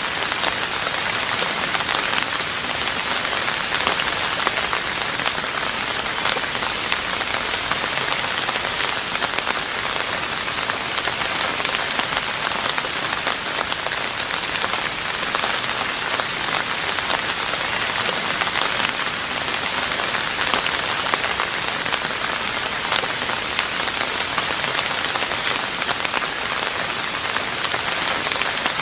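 Steady heavy rain falling on a roof, a dense, even patter of drops with no let-up.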